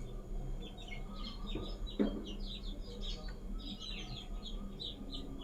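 Small birds chirping quickly and repeatedly in the background, with one light knock about two seconds in.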